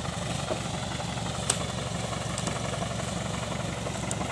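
Daihatsu Taft Hiline's diesel engine running steadily with a low, fast-pulsing rumble. There is one sharp click about a second and a half in.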